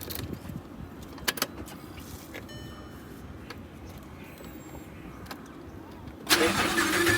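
A few clicks and a short electronic chime in an Audi R8 V10. About six seconds in, the starter begins cranking the car's 5.2-litre naturally aspirated V10.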